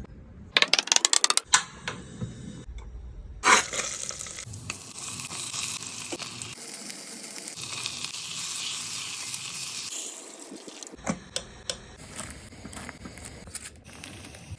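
Food sizzling in hot oil in a pan: the hiss starts with a sharp clatter about three and a half seconds in and fades after about ten seconds. Quick taps and clinks of a utensil against the pan come before and after it.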